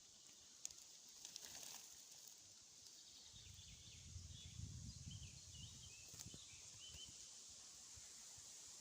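Faint birdsong: a few short chirping phrases from a small bird, heard against steady hiss. A low rumble swells in the middle and a couple of sharp clicks cut through.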